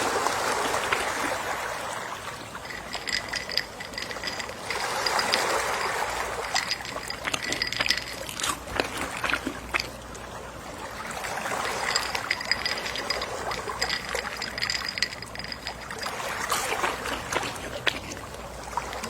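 Gentle sea waves washing onto a shore, swelling and drawing back about every five or six seconds, with the fizz and trickle of water running over sand and pebbles.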